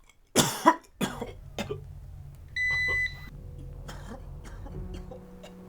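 A few short coughs early on, then a single electronic beep lasting about half a second over a low steady hum. Music begins near the end.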